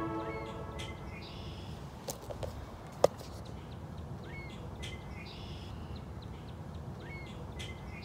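Wild birds calling outdoors: short chirps sliding upward, and high trills, repeating every few seconds over a faint steady background. The last of a music track fades out at the very start, and there is a single sharp click about three seconds in.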